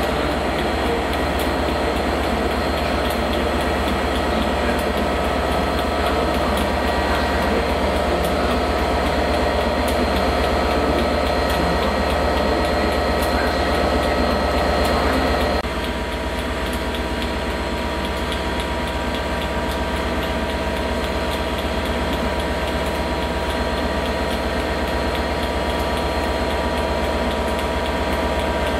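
Diesel trains running at a station, a steady engine drone with several held tones. About halfway through the sound changes suddenly and goes on steady, slightly quieter.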